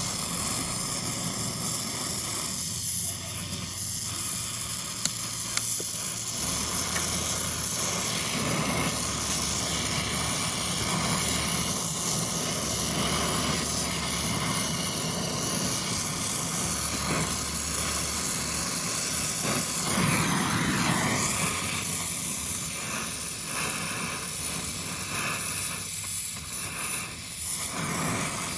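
Gas brazing torch flame hissing steadily while copper air-conditioner pipe joints are brazed.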